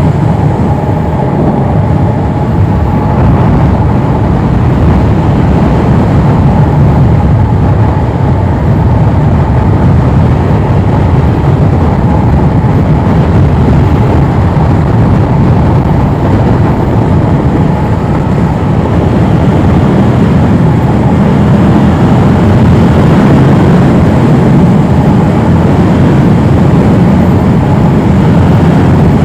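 Yamaha R7 motorcycle being ridden at speed: a steady, loud rush of wind over the helmet microphone with the engine running beneath it.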